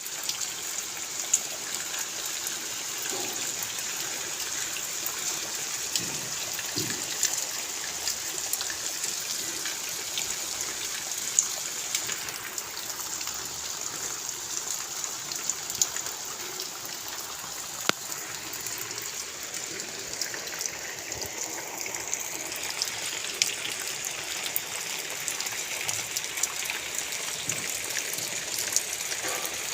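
Steady rain falling, with scattered sharp drop sounds standing out now and then.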